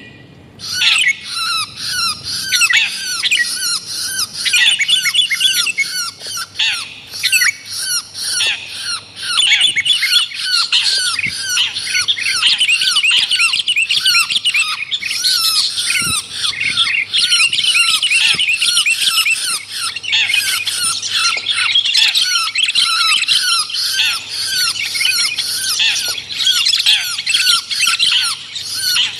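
Lure recording of a long-tailed shrike (cendet) mixed with sooty-headed bulbul (kutilang) calls: a dense, harsh chatter of rapid, hooked squawking notes, many a second without pause.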